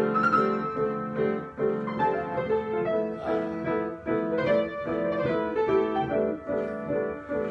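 Piano improvisation: a flowing line of struck notes over held chords.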